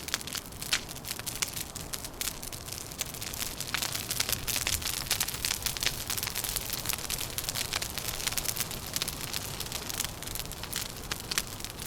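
Wood fire crackling, with many quick pops and snaps over a steady hiss.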